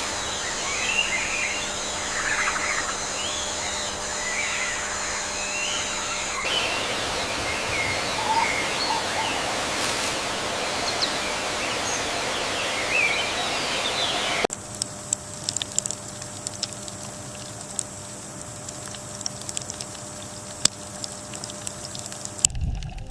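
Birds chirping, short rising and falling calls over a steady outdoor hiss. About two-thirds of the way through, this cuts to a quieter stretch of scattered sharp clicks and ticks.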